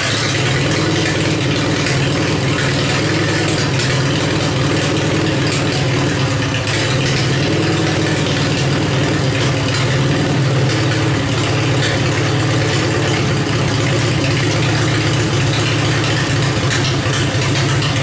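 Worn-out Kohler KT17 air-cooled twin-cylinder engine on a Simplicity 7117 garden tractor, running steadily just after a cold start.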